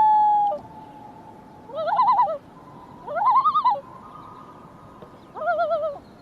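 An animal calling: a held call ends about half a second in, then three drawn-out calls follow about a second and a half apart, each rising and then wavering up and down in pitch.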